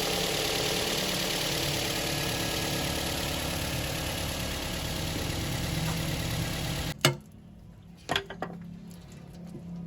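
Toyota GLI car engine running steadily, then cutting off abruptly about seven seconds in; a couple of sharp clicks follow.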